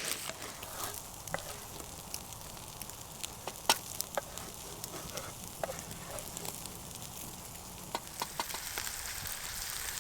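A burger with onions and mushrooms sizzling steadily in a pan over a campfire, with scattered sharp crackles and pops; the loudest pop comes about 4 seconds in.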